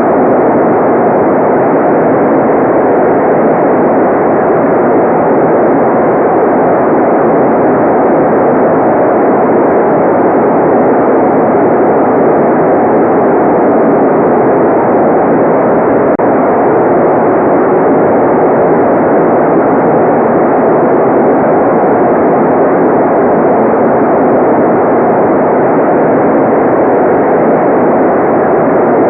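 Continuous electronically generated white noise: a dense, unchanging hiss with its weight in the low-middle range and no variation in level.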